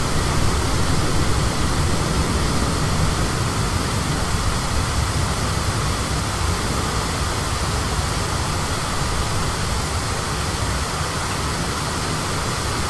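High storm wind blowing steadily, rumbling on the microphone, easing slightly toward the end.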